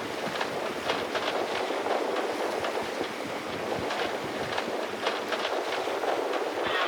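Water rushing and splashing along a sailboat's hull while it sails downwind under mainsail, a steady rush broken by many small irregular clicks and slaps.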